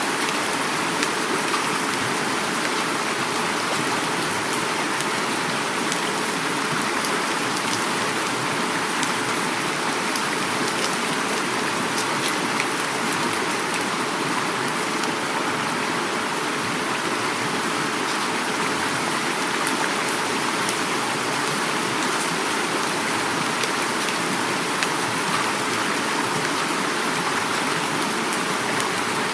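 Heavy rain falling steadily, mixed with the even rush of a flowing river, with faint scattered drop patters.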